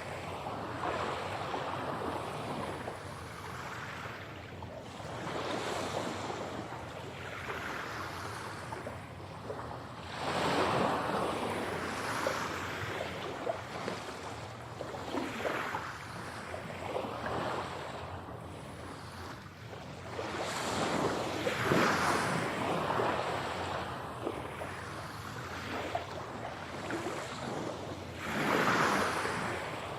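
Ocean waves breaking and washing ashore in slow, repeated swells, the biggest about a third of the way in, two-thirds in and near the end. The surf is processed as 8D audio, panned around the listener.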